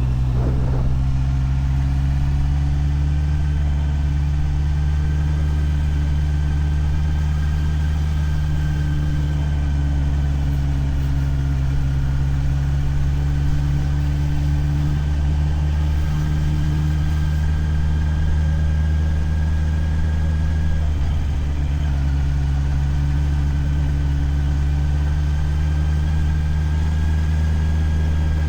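Motorcycle engine running steadily at low revs, close to idle, with an even pitch that drifts only slightly.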